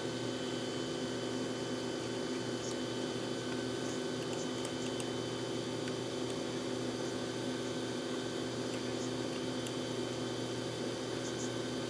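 A steady hum with a few faint light clicks scattered through it.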